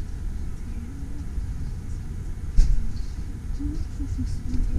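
Low rumble of a passenger train rolling slowly, heard from inside the carriage, with a single sharp clunk a little past halfway.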